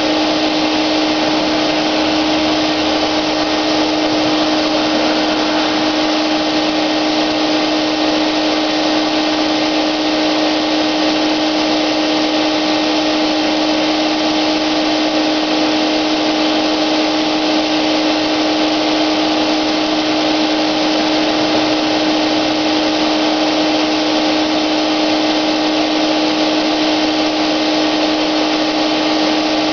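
Wagner electric paint sprayer running steadily, a constant motor whine over a rushing hiss, as paint is sprayed.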